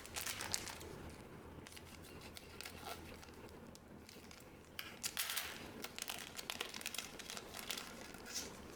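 Trading card booster pack wrappers crinkling and tearing as they are handled and opened, with louder rustling at the start and again about five seconds in.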